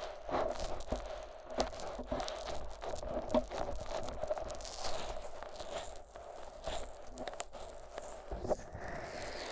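Vaseline-coated fingers rubbing and massaging the silicone ears of a 3Dio binaural microphone: sticky, wet rubbing broken by many small clicks and crackles.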